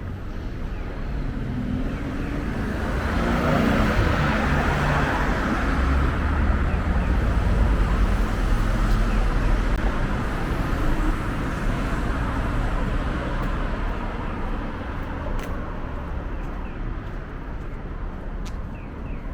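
Road traffic: a vehicle passing, its tyre and engine noise with a deep rumble swelling a few seconds in, loudest for several seconds, then slowly fading.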